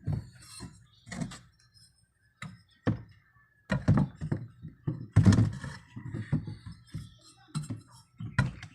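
A series of irregular knocks and thuds, with a short cluster of clattering hits in the middle: hard objects being struck or handled.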